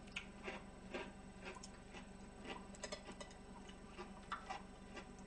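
Faint, irregular clicks and smacks of someone chewing food close to a microphone, a few per second, with light clicks of chopsticks picking up food.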